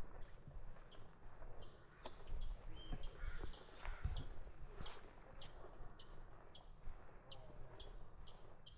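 A small bird calls with short, high chirps repeated about twice a second, over a low rumble of wind and water.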